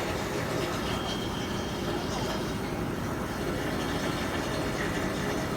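Steady machinery noise aboard a ship, a constant low rumble with hiss over it and no breaks.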